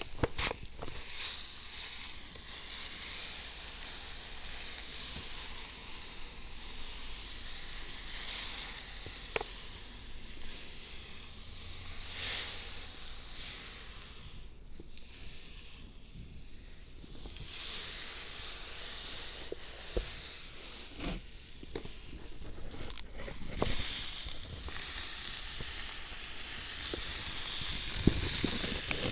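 Fine dry sand hissing and rustling as it is handled for a miniature dry-landscape garden, with scattered small ticks.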